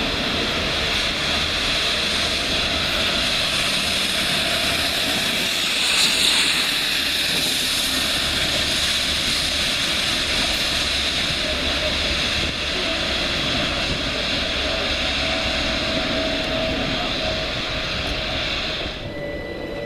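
Electric train running through the station, a steady rush of wheel and motor noise with a band of high whine, cutting off suddenly near the end.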